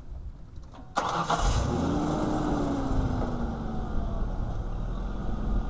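A motor vehicle engine starts about a second in, revs briefly, then settles back to a steady idle.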